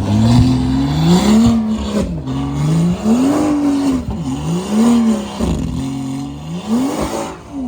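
A car engine revving up and down repeatedly, its pitch climbing and falling about four times in a few seconds before it drops away at the end.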